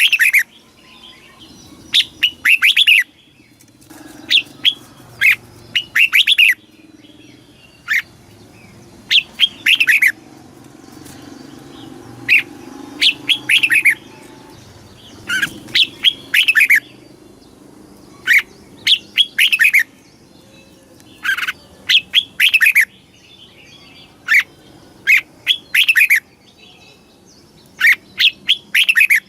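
Red-whiskered bulbul singing: short, loud phrases of quick whistled notes that slur downward, repeated every second or two with short pauses between.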